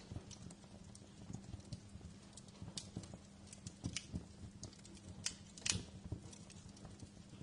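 Wood fire crackling in a fireplace: irregular small pops and clicks over a low rumble, with a few sharper snaps about five to six seconds in.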